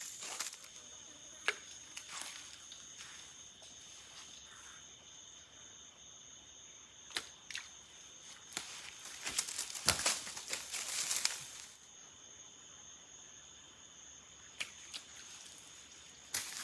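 Insects chirring steadily at two high pitches, typical of crickets or katydids at a forest creek. A few sharp clicks sound over it, and a louder burst of rustling and scraping comes about nine seconds in and lasts some three seconds.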